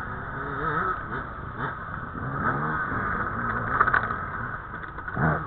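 Dirt bike engines revving on the course, the pitch climbing and dropping repeatedly as the throttle is worked, with a sharp rise near the end.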